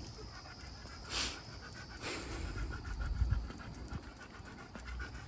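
A golden retriever panting, with a steady low rumble beneath.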